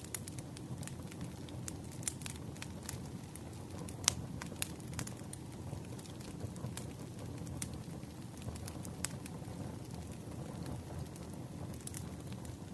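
Campfire crackling: scattered sharp pops and snaps over a steady low rumble of burning wood, with the loudest pop about four seconds in.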